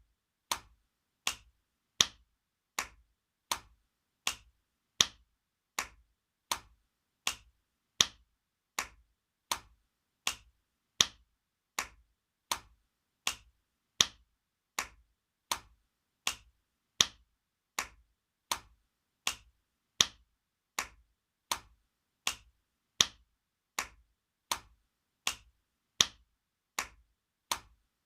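Spanking slaps, hand on skin, repeating in an even loop: sharp slaps about every three-quarters of a second, with every fourth one louder.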